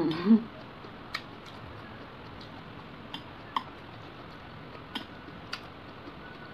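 Eating with chopsticks from plastic food containers: about six sparse, light, sharp clicks and ticks a second or so apart, from chopsticks and mouth while chewing. At the very start there is a brief hummed "mmm".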